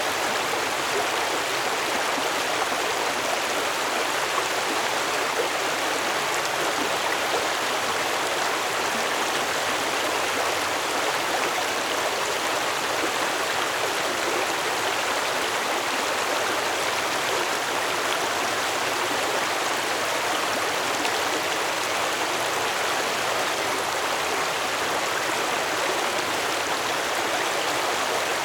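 Stream water flowing steadily, a continuous even rush and babble.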